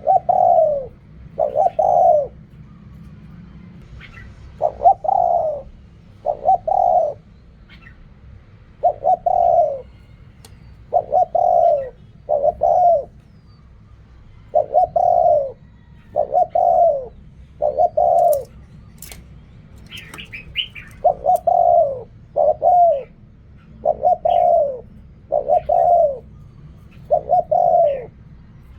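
Spotted dove cooing over and over: short, hoarse coos that fall in pitch, given in pairs and threes with brief pauses between phrases. A few faint higher chirps come through in the second half.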